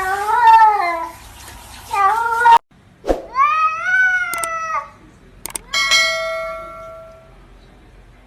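Domestic cats meowing: two short meows in the first couple of seconds, then, after a cut, one longer meow that rises and falls. About six seconds in, a clear ringing tone starts and fades out.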